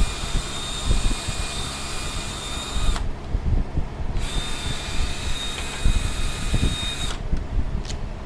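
Handheld power tool, such as a drill or driver, running with a steady high whine in two spells of about three seconds each, with a short pause between them.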